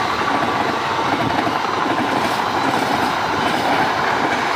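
Passenger train coaches rolling past on the rails, a steady noise of steel wheels on track.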